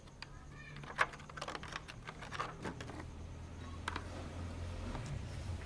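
A quick run of light clicks and taps, like small hard parts being handled and pressed, with a low steady hum coming in about halfway through.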